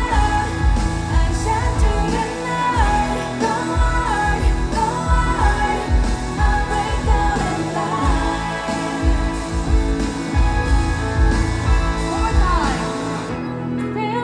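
Live K-pop music over a concert sound system: singing over synths and a heavy pulsing bass beat. Near the end the beat and bass drop out, leaving a thinner melodic passage.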